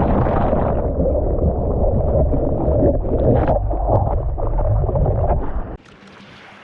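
Loud, ragged rumbling noise buffeting the microphone, like rushing wind or water, that cuts off suddenly near the end and leaves a faint hiss.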